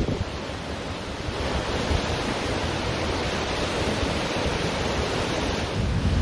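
Ocean surf washing onto a beach as a steady rush, swelling a little about a second and a half in, with wind rumbling on the microphone.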